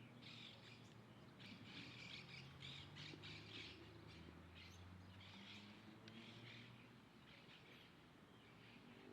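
Faint small birds chirping: a quick run of short high chirps in clusters, thinning out near the end, over a faint low drone.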